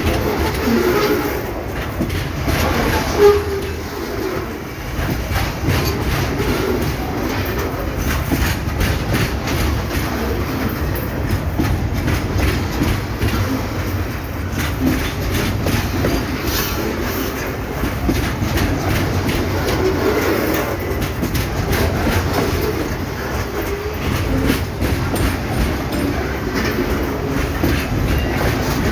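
A freight train's wagons rolling steadily past, wheels clicking and knocking over the rail joints, with one louder knock about three seconds in.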